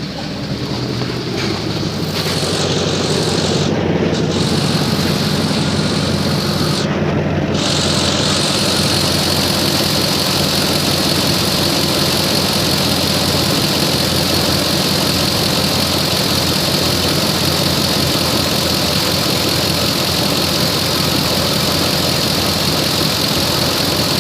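2005 Ford F150 engine running steadily, louder over the first couple of seconds and then even. The engine has an exhaust leak.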